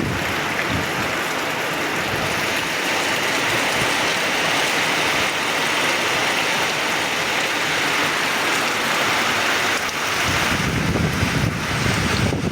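Heavy rain falling as a steady, dense hiss. From about ten seconds in, low wind buffeting on the microphone joins it.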